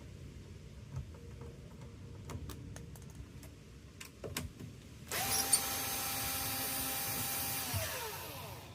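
Small handling clicks and knocks, then about five seconds in a power drill runs at steady speed for about two and a half seconds and spins down with falling pitch after the trigger is released.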